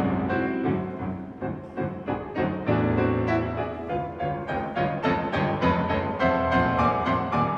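Piano playing a flowing passage of quickly repeated notes, with deeper bass notes coming in about three seconds in.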